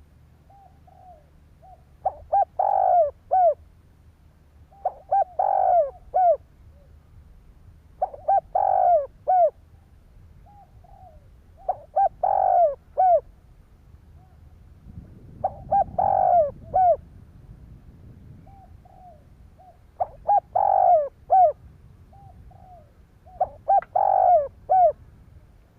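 Spotted dove cooing: a phrase of several loud coos repeated every three to four seconds, with softer short coos between the phrases.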